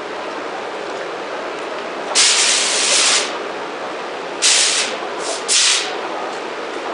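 Steady running noise of a PVC gasket extrusion production line, with four bursts of compressed-air hissing: a long one about two seconds in, then three shorter ones close together a little later.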